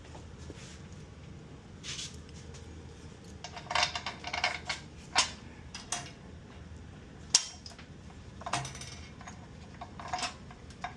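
Scattered metallic clinks and knocks of metal parts and tools being handled while an engine is lined up with a transmission. There is a sharp knock about five seconds in and another about seven seconds in.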